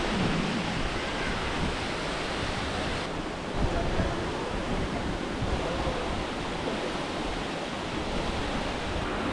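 Steady rushing roar of a waterfall's falling water, with faint voices beneath it.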